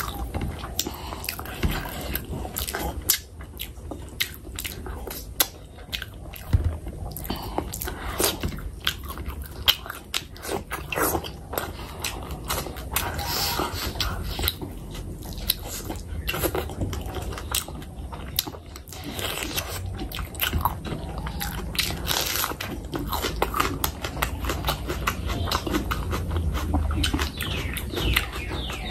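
Close-miked chewing of fish curry and rice, with many irregular mouth clicks throughout.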